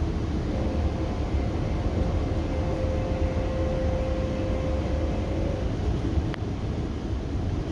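Metrolink commuter train in motion heard from on board: a steady low rumble of the running train, with a steady whine for most of it and a single sharp click near the end.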